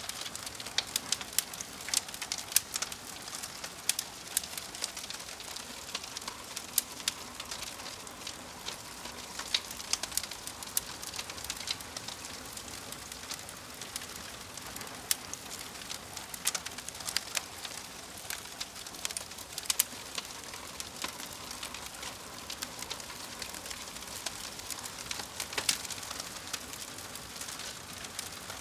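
Log fire burning in a fireplace, with irregular sharp crackles and pops over a steady hiss.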